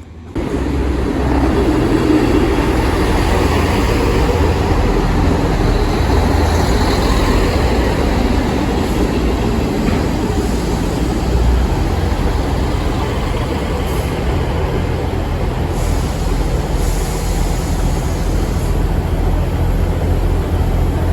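Train running along the line: a steady, loud rumble with rail and wheel noise.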